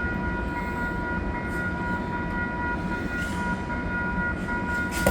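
Metrolink commuter train standing at the station, its engine running with a steady low rumble and a constant high whine.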